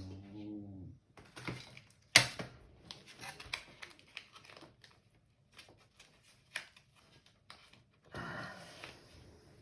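Plastic parts of a robot vacuum being handled during disassembly: scattered clicks and rattles, a sharp knock about two seconds in, and a longer rustle near the end.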